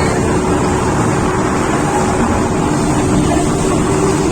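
Engine running at a steady pitch under a heavy, even rush of wind noise, as from a moving vehicle.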